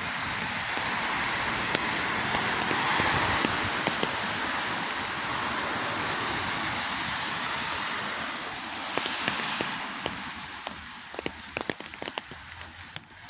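Rain falling, a steady hiss that swells over the first few seconds and fades after about ten seconds, with scattered sharp drip ticks that grow more frequent near the end.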